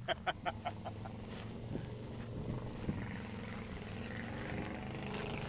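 Heavy vehicle engine running steadily, growing a little louder toward the end, after a quick run of short staccato pulses in the first second.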